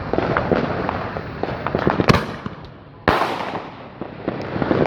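Fireworks going off: a fast crackle of sharp pops, a sharp bang about two seconds in, and a louder bang about a second later that fades away, then more popping near the end.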